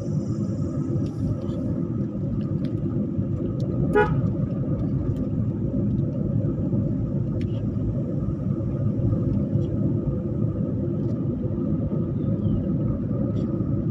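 Steady road rumble of a moving vehicle, with a short horn toot about four seconds in.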